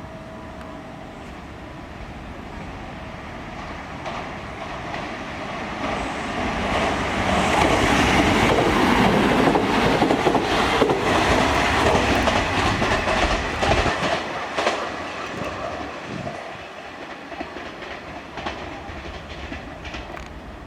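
A Kintetsu Minami-Osaka Line train running through the station with its wheels clacking over the rail joints. It gets louder over several seconds, is loudest for about six seconds in the middle, then fades away.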